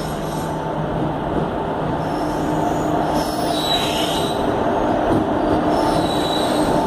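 WAP-4 electric locomotive and its train of ICF coaches running in along the platform, a steady rumble that grows gradually louder as it nears. Brief high squeals from the wheels come a few seconds in and again near the end.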